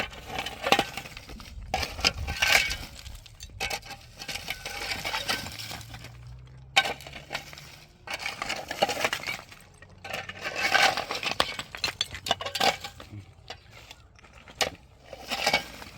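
Irregular clinking and clattering of hard objects knocking together, in scattered clusters.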